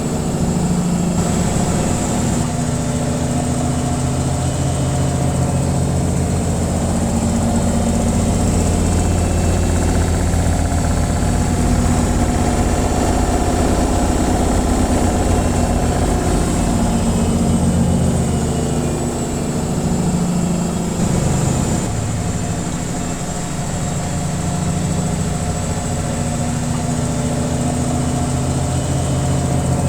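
Washing machine on its spin cycle: the drum spinning at speed with a steady, even hum and hiss, dipping slightly in level for a few seconds about two-thirds of the way through.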